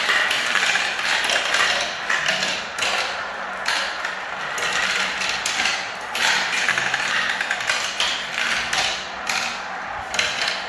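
Many small balls rolling and clattering down a spiral marble-run ramp, a dense continuous rattle of quick clicks that swells and eases every second or two.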